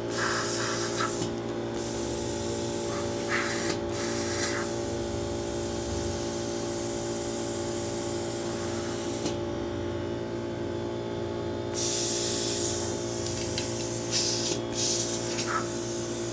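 Compressed air hissing steadily over a constant machine hum. The hiss breaks off briefly twice early on and for about two seconds near the middle, then comes back.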